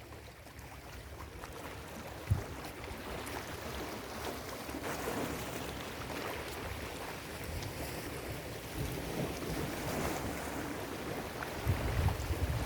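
Ocean surf washing onto a beach, a steady hiss of breaking water that swells toward the end, with wind buffeting the microphone in low gusts. There is one brief thump a little over two seconds in.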